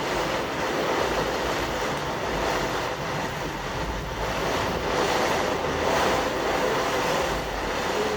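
Steady rushing hiss of a ground fountain firework spraying sparks, with no bangs. Wind rumbles on the microphone underneath.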